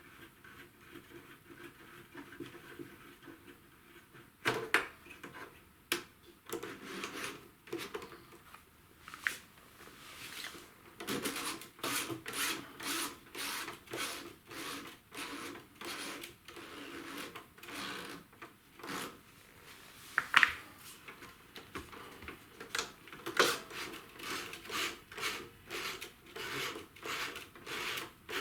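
Repeated rubbing and scraping strokes, scattered at first and then coming steadily at about one to two a second from roughly eleven seconds in.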